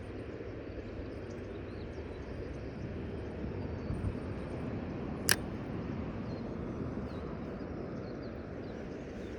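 Steady rushing outdoor background noise, with a single sharp click a little past five seconds in.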